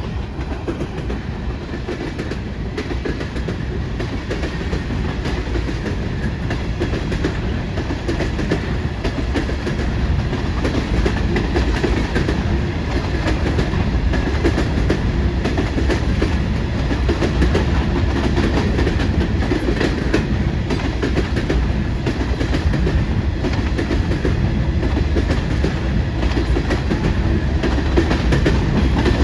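Freight train rolling past at close range, its wheels clacking over the rail joints in a steady run, growing a little louder toward the end.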